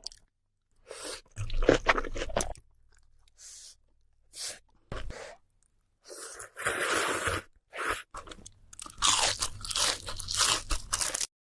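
Crunchy food being bitten and chewed close to the microphone, in a series of separate crunching bites with short pauses between, coming thicker in the second half.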